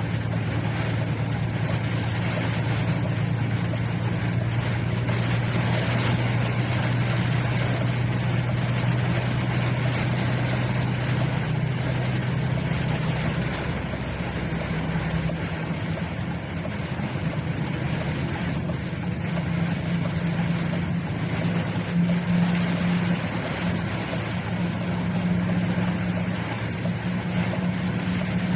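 A vehicle driving in heavy rain: a steady wash of rain and wet-road noise over a low engine drone, whose pitch shifts up a little past halfway through.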